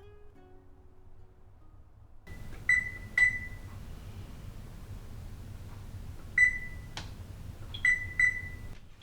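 Short single-pitch electronic beeps, like an appliance keypad being pressed: two about 3 s in, one near 6.5 s and two near the end, with a sharp click in between.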